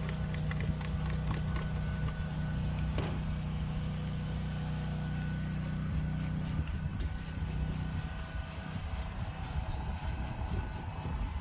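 A motor vehicle engine idling with a steady low hum that shifts and roughens about two-thirds of the way through.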